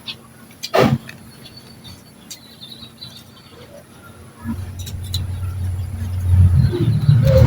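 A single sharp knock about a second in. From about four and a half seconds, a motor vehicle's engine rumbles low and grows steadily louder as it approaches.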